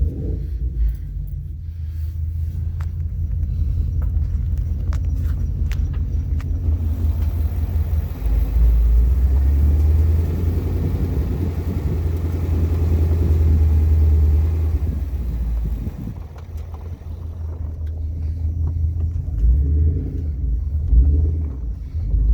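Freshly rebuilt Ford Coyote 5.0 V8 running as the car drives slowly down the street, a deep steady rumble. It gets louder for several seconds in the middle as the car pulls, then eases off and builds again near the end.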